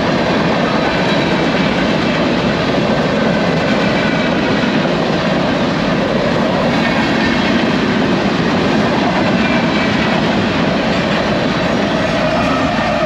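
BNSF freight train rolling past at close range: a steady, loud rumble and rattle of the cars' wheels on the rails.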